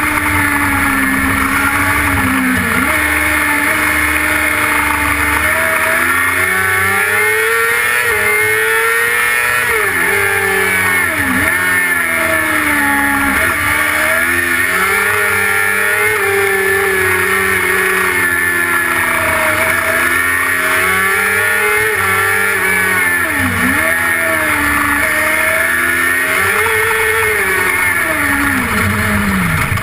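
Engine of the DSP XK600 autocross car heard from on board while it laps a dirt track, its pitch rising and falling continuously through the corners and dropping sharply several times.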